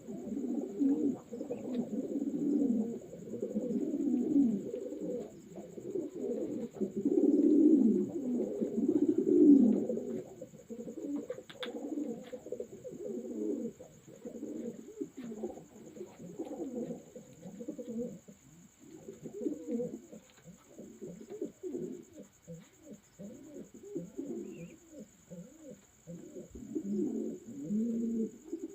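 Several racing pigeons cooing over one another in a continuous overlapping chorus of low, rolling coos, louder in the first half.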